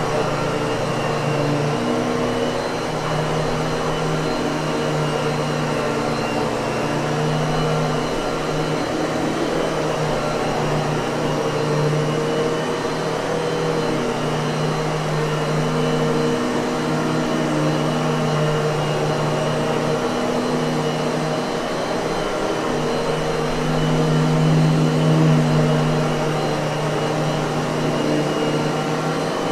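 Miele vacuum cleaner motor running steadily, with a constant hum under the rushing air and a slight swell in level about 25 seconds in.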